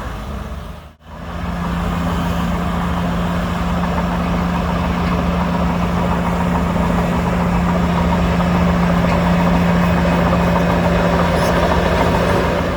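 Heavy diesel earthmoving engine running steadily with a constant low hum. The sound drops out briefly about a second in, then returns.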